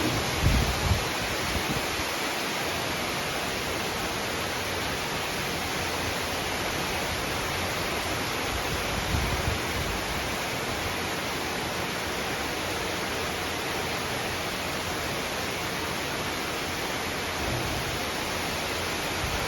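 Heavy downpour of rain falling, a dense, steady hiss, with a few brief low rumbles about a second in and again around nine seconds.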